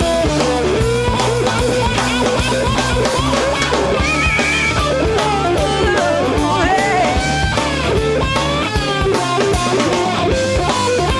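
Instrumental blues-rock shuffle: an electric guitar plays a lead line full of string bends over bass guitar and drum kit.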